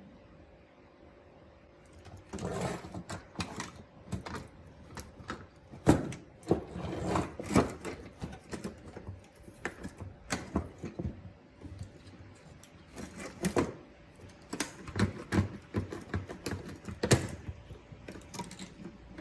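Irregular clicks, knocks and short scrapes of hand tools and small parts being worked on at a bench, starting about two seconds in, over a faint steady hum.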